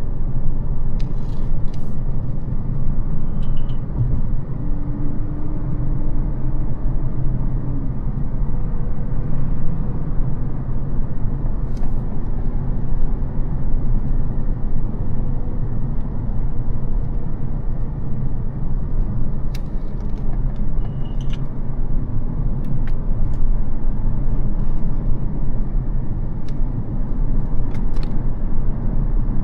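Mercedes-Benz CL600's 5.5-litre twin-turbo V12 (M275) and tyres under way at a steady pace: a dense, even low rumble with no sharp revving, plus a few small ticks.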